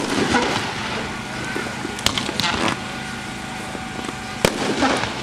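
Consumer firework cake ('Crazy Joe') going off: three sharp reports about two seconds apart, over crowd chatter.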